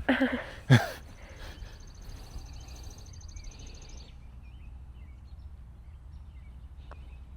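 A bird's rapid, high-pitched trill lasting about three seconds over quiet outdoor background noise, preceded under a second in by one sharp knock.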